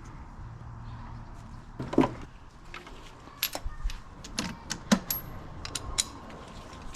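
Metal tools and engine parts clinking and knocking on a motorcycle engine being taken apart. There is one loud knock about two seconds in, then a quick run of sharp metallic clicks.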